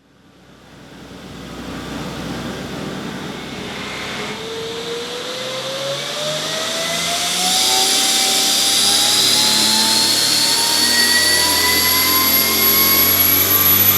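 Nissan RB25DET NEO turbocharged inline-six running on an engine dyno, growing louder as it comes on load. Over the engine note, a turbocharger whine rises slowly and steadily in pitch.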